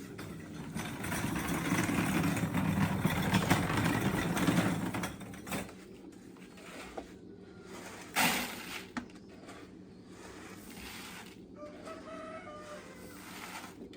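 Poultry sounds: a loud noisy stretch lasting a few seconds, a sharp knock about eight seconds in, and a short fowl call near the end.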